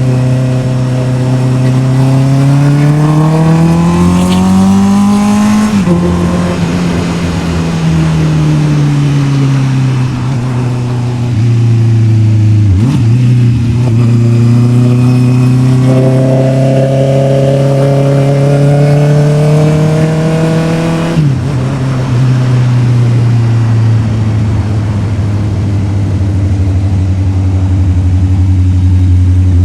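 Honda CB650R's inline-four engine under way: it revs up through a gear, shifts up about six seconds in, and the revs ease down. After a brief dip near the middle it pulls up through the revs again, shifts up once more about two-thirds of the way through, then runs at a fairly steady cruise.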